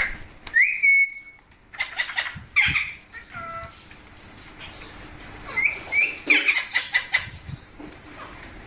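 Pet rose-ringed parakeets calling: a rising whistle held as a steady note, then bursts of harsh squawks and short chirping calls, in several separate bouts.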